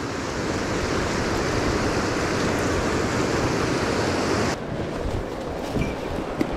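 Rushing water of a mountain stream, a steady hiss. About two-thirds through it abruptly becomes duller and a little quieter.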